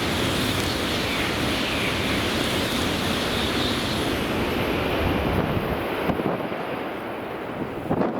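Shinkansen train rushing along the platform, a loud steady roar of wind and wheel noise that dies away after about six seconds, with a short sharp knock near the end.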